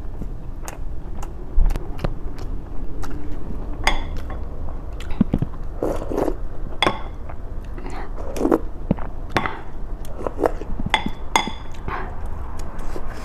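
Close-up eating sounds: chewing and mouth smacking, a steady, irregular run of clicks with a few louder bites.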